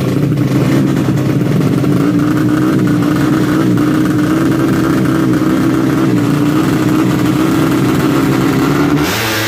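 Tuned 130cc four-stroke underbone drag-bike engine running loud at high, fairly steady revs, its pitch creeping up slightly. The sound changes abruptly near the end.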